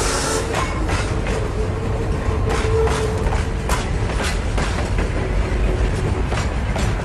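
Train running, a steady rumble with irregular clicking of wheels on track. A whistle's chord of steady tones cuts off about half a second in.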